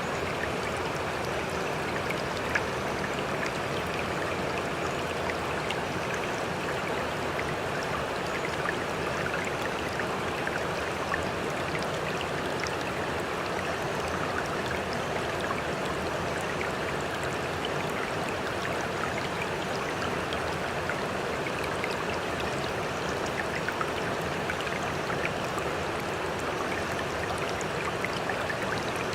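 Continuous sea water lapping and trickling, with scattered small drip-like ticks and no rise or fall of waves.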